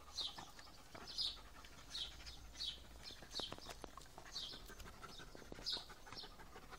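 A small bird chirping over and over: short, high, falling chirps about once or twice a second, with faint scattered clicks alongside.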